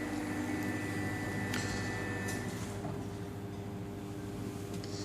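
Steady mechanical hum with several held tones, with a faint tick about one and a half seconds in.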